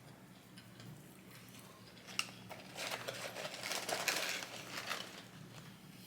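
Fast-food paper packaging crinkling as it is handled, a crackly rustle in the middle of the stretch, with a sharp click about two seconds in.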